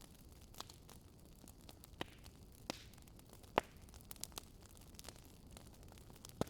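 Wood fire crackling: a faint steady hiss with sharp, irregular pops and snaps, the loudest about halfway through.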